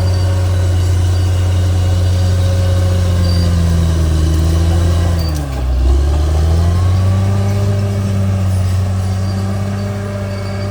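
Bulldozer's diesel engine running steadily, its pitch dipping briefly about five and a half seconds in and then coming back up.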